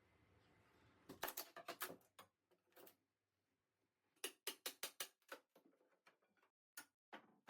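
Faint quick clicks and ticks in two short runs, one about a second in and one around four seconds in, with a few single clicks between and after.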